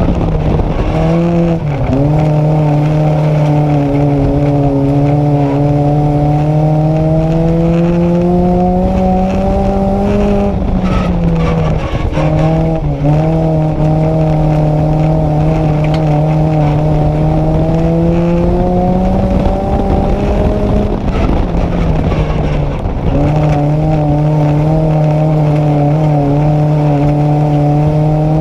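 Nissan Micra race car's engine heard from on board under sustained throttle. The engine note climbs slowly in three long pulls, dipping briefly about a second in, near the middle and about two-thirds through as the driver lifts or changes gear.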